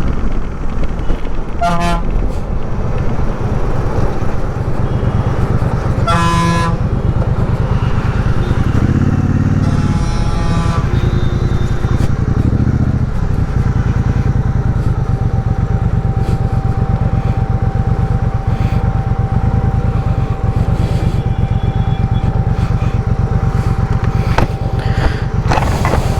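Triumph Speedmaster 1200's parallel-twin engine running steadily under way, with vehicle horns honking in short blasts about 2 s, 6 s and 10 s in. From about halfway a thin steady tone runs on above the engine.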